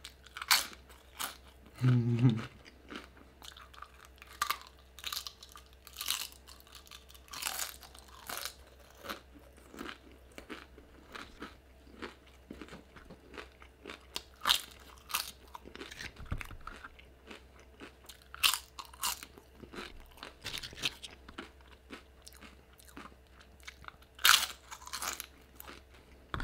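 Close-miked chewing of crunchy tortilla chips: irregular sharp crunches with quieter chewing between. A short low hum, about two seconds in, is among the loudest sounds.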